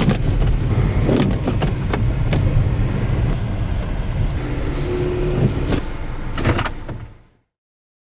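Car noise in the snow: a low rumble with scattered knocks and clicks, dying away to silence about seven seconds in.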